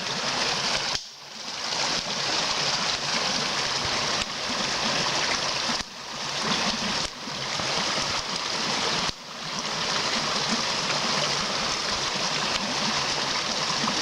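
Swollen, fast-flowing creek rushing loudly, a steady roar of running water that drops away briefly and suddenly a few times.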